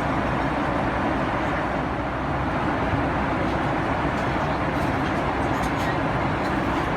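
Steady cabin noise inside a Boeing 777-300ER airliner: an even rush of engine and airflow noise that does not rise or fall, with a few faint clicks midway.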